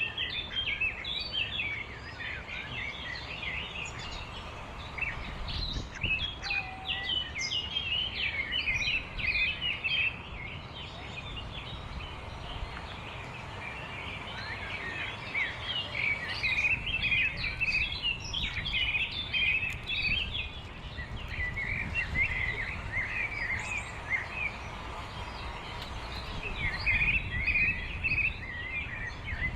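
Many small birds chirping in quick short calls, a dense chorus that thickens in bursts, over a steady low background rumble.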